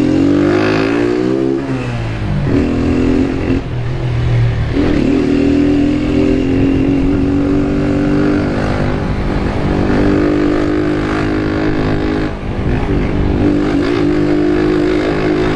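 Honda CG 160 Fan's single-cylinder engine accelerating through the gears: its pitch climbs and drops back with each shift in the first few seconds, then holds a steady cruise.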